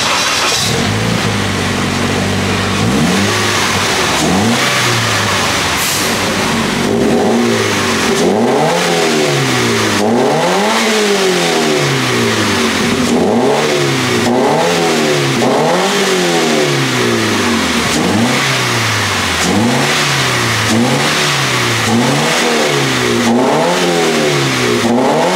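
Car engine running through a newly fitted Valvetronic valved rear exhaust. It idles for a few seconds, then is blipped over and over, each rev rising and falling, about one every second and a half.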